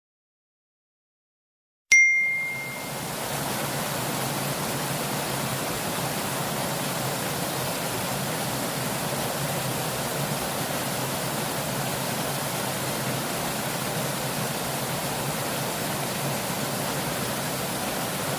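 Fast-flowing river water rushing steadily. It starts about two seconds in with a short, sharp ding, after near silence.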